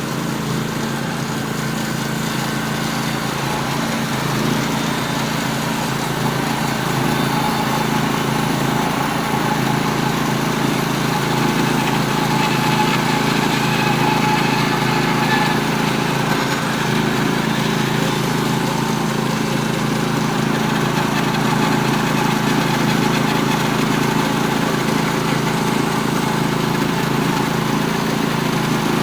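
Norwood HD36V2 band sawmill running steadily on its 18 hp Vanguard V-twin engine, a steady engine drone under a broad mechanical noise.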